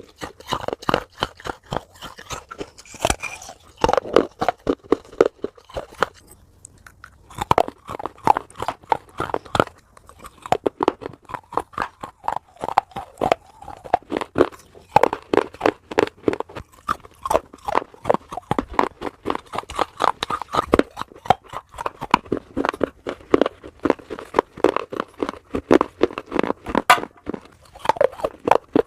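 Close-miked chewing of crunchy food: a fast, dense run of crunches, with a brief pause about six seconds in.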